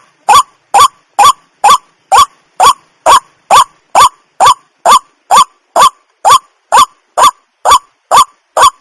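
Waterhen calling: a short, loud, rising note repeated evenly, a little over two calls a second.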